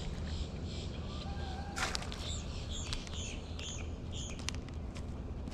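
A bird calling in a quick series of short, high chirps, about two or three a second, starting about two seconds in, over a steady low rumble, with one sharp click just before the chirps begin.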